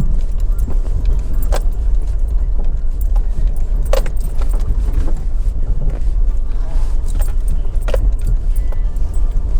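Road noise inside a moving car: a steady low rumble, with a sharp short click or rattle every two to three seconds.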